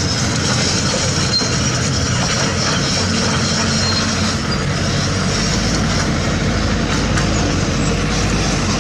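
Heavy diesel construction machinery working, its engines running steadily under load with metallic clatter and thin high squeals of the kind that crawler tracks make. A deeper low rumble swells about five seconds in.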